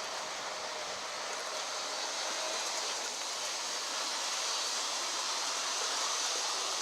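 G scale model diesel locomotive running steadily along outdoor garden track: an even rolling hiss of wheels on rail, with a faint steady motor hum underneath.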